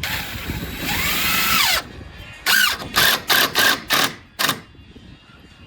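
A cordless power drill driving screws to fasten a window into its framing. It makes one run of nearly two seconds as the motor speeds up and winds down, then five short trigger bursts in quick succession as the screw is seated.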